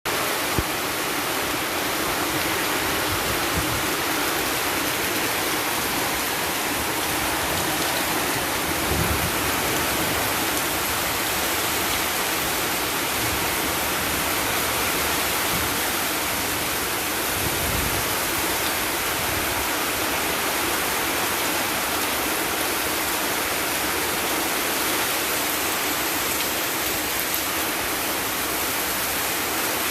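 Heavy rain pouring down steadily in a wind-and-rain storm, an unbroken rushing hiss, with a few brief low buffets of wind on the microphone.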